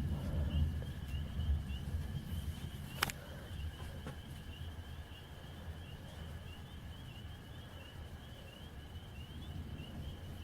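Low rolling thunder rumble, strongest at first and fading over several seconds, under a steady high chirping of insects. A single sharp click about three seconds in.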